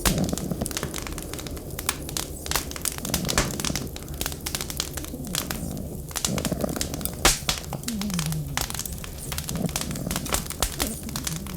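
Wood fire crackling, with irregular sharp pops and one louder pop about seven seconds in, over a low rumble that swells and fades every few seconds.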